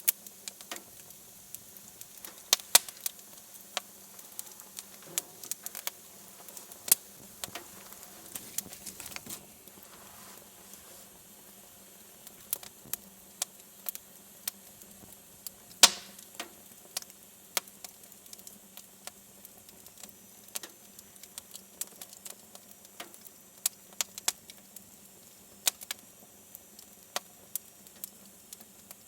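Wood fire crackling in a fireplace: irregular sharp pops and snaps of varying strength, the loudest a little past the middle, over a faint steady background.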